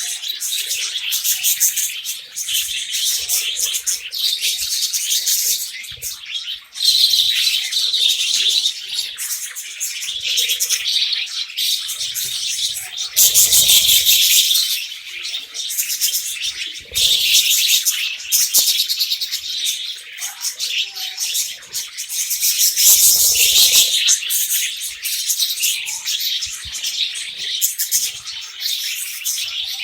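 Budgerigars chattering and warbling in a dense, unbroken stream of fast chirps and squeaks, with louder spells about halfway through and again about three-quarters of the way through.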